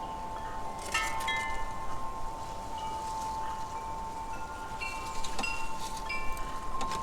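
Wind chimes ringing: a long, steady ring with fresh higher notes struck now and then as they move.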